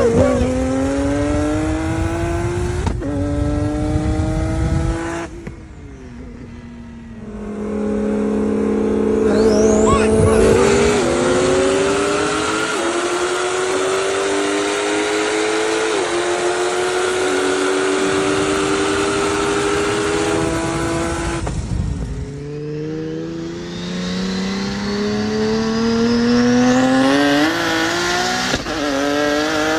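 Car engine pulling hard under full acceleration, its pitch climbing and stepping down at each upshift. It lets off briefly a few seconds in and again about two-thirds of the way through, then pulls up through the gears again.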